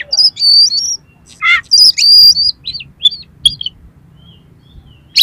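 Oriental magpie-robin (kacer) singing: fast runs of high whistled notes broken by short harsh, rasping notes. The song goes quiet for about the last second and a half.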